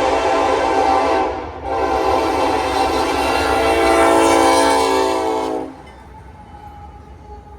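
Diesel locomotive air horn (Norfolk Southern 4356) sounding for a grade crossing: a long blast, a short break about a second and a half in, then another long blast that cuts off suddenly near six seconds. After it, the much quieter rumble of the train rolling through continues.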